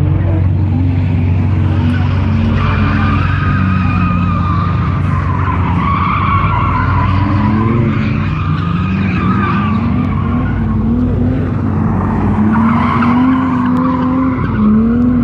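Car spinning its tyres: a continuous, wavering tyre squeal over the engine held at high revs, its pitch climbing slowly in the second half.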